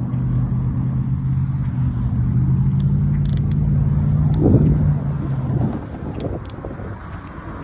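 A car's engine running close by in traffic: a steady low hum that fades out over the last couple of seconds, over road noise.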